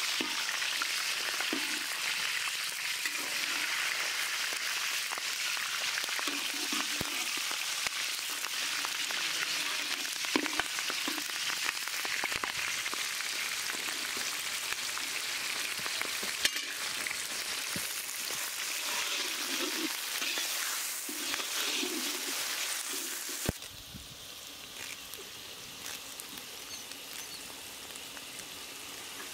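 Green and red chilies and chopped onions sizzling in hot oil in a large iron kadai, a steady dense hiss with a few sharp clicks of the metal ladle against the pan. About three-quarters of the way through the sizzle falls to a quieter hiss.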